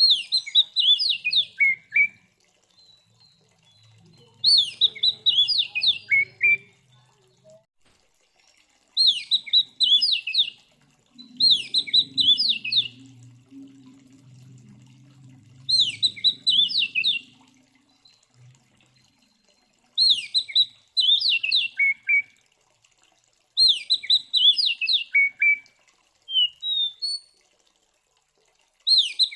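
Oriental magpie-robin (kacer) singing loudly, repeating the same short phrase about every four seconds. Each phrase is a quick run of notes falling in pitch.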